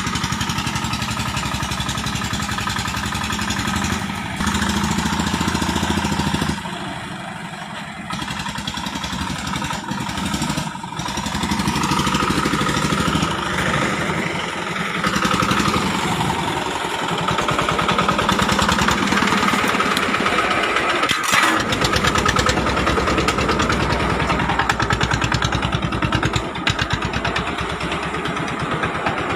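Single-cylinder 'dompeng' diesel engine of a home-built palm-fruit hauling vehicle running with a rapid, even chugging beat. It drops quieter for a moment about seven seconds in and runs louder again from about twelve seconds.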